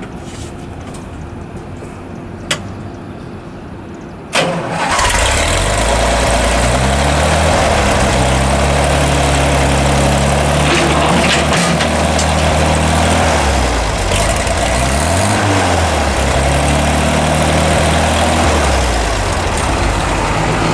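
International Harvester 606 gas tractor's engine being started: a single click about two seconds in, then at about four seconds the engine fires abruptly and settles into running. Its speed rises and falls a few times as it runs.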